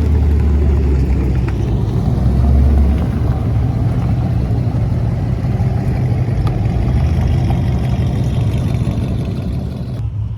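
Car engine running with a steady, deep low rumble that swells briefly a couple of seconds in, then holds steady.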